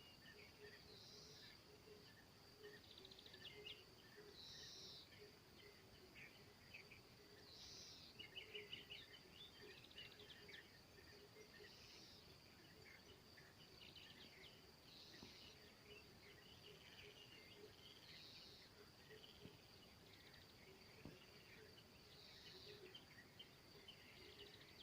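Faint birdsong: a short high call repeats about every three to four seconds, among scattered smaller chirps, over a steady thin high-pitched tone.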